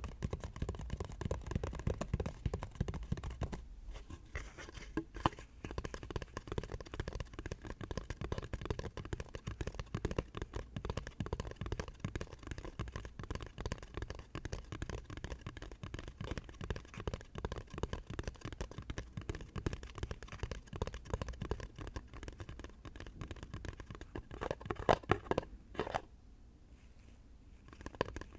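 Fast ASMR tapping: fingertips and nails tapping quickly and densely on small household objects, with a short pause near the end.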